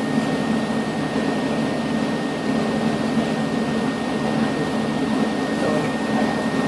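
Steady drone of running shop machinery, with a thin steady whine above it and no change throughout.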